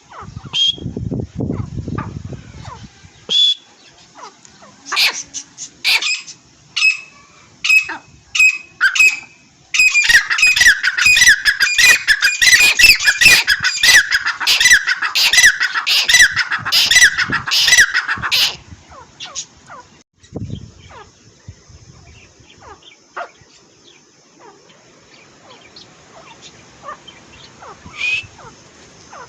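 A pair of teetar (francolins) calling: single loud notes about once a second, then roughly eight seconds of dense, rapid calling together that stops abruptly, followed by scattered faint notes. A low rumble is heard in the first few seconds.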